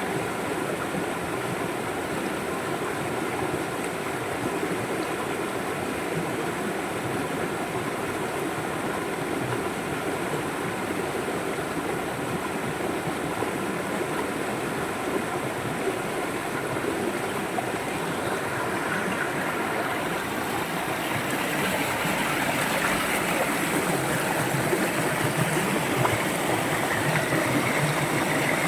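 River water flowing steadily over rocks, a continuous rushing and gurgling that grows louder about two-thirds of the way through.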